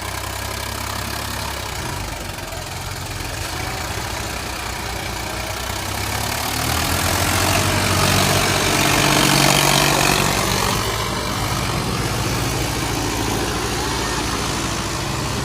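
Tractor diesel engine running, revving up and getting louder for a few seconds about halfway through, then settling back to a steadier run.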